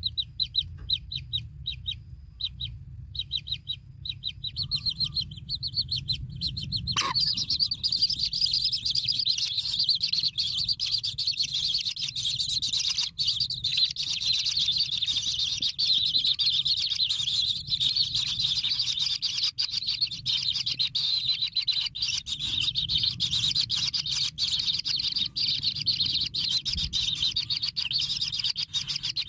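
Kingfisher chicks calling from the nest hole: a run of short, rapid high chirps, then from about seven seconds in a continuous high chittering. A low rumble sits underneath throughout.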